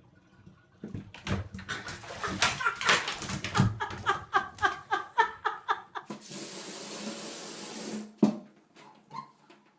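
A dog gives a rapid run of short, pitch-bending cries, about four a second. Then running water starts about six seconds in and lasts about two seconds, followed by a single sharp knock.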